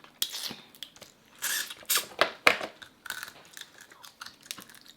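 Eating sounds close to the microphone: irregular crackling and crunching with chewing as crab and lobster are eaten.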